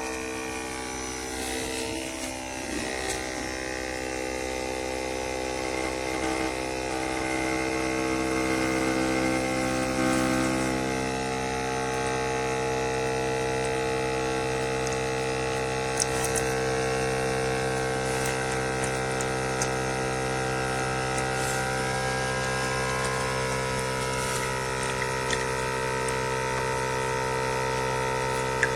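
A coffee maker's electric pump humming steadily as it pushes water through during a brew, its pitch shifting slightly about a third of the way in.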